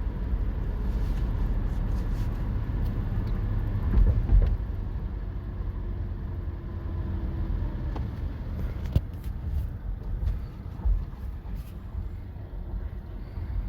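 Toyota Tacoma pickup driving, its steady engine and road rumble heard from inside the cab, with a couple of thumps about four seconds in.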